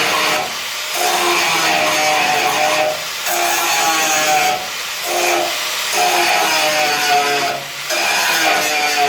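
Angle grinder grinding off spot welds in car body sheet steel, its whine sagging under load and easing in short breaks every second or two as the disc is lifted and pressed on again.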